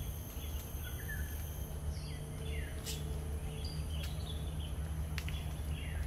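Wild birds calling in tropical forest: repeated short, falling chirps, over a steady low rumble.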